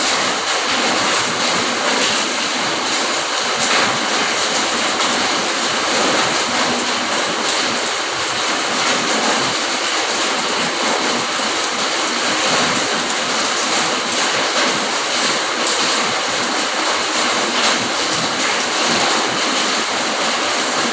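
Steady rain falling: an even, unbroken hiss with faint drop patter, holding one level throughout.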